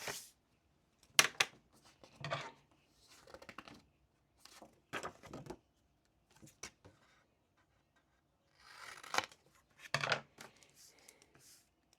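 Short rustling and scraping handling noises on a desk, about seven separate bursts spaced irregularly, a few with sharp clicks in them.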